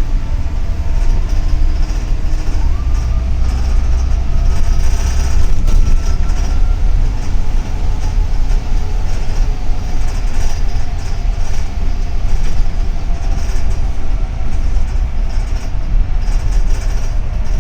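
Cabin noise of a double-decker city bus under way: a steady low rumble from the engine and the road, with rattling, and a faint whine that rises in pitch about two to three seconds in as it picks up speed.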